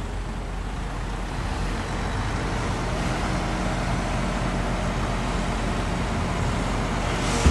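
Heavy diesel engine of earthmoving machinery running steadily, with a low engine drone throughout.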